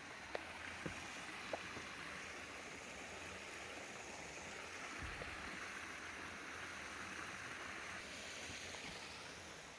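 Steady rushing of a waterfall's water, with a few faint knocks in the first couple of seconds.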